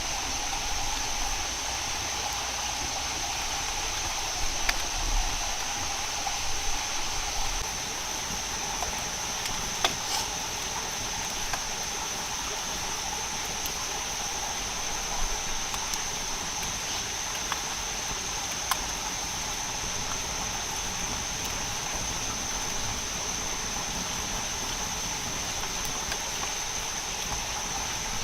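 Rainforest insects calling in a steady, unbroken chorus at two pitches, a high band and a lower one, over a constant hiss, with a few faint clicks or knocks.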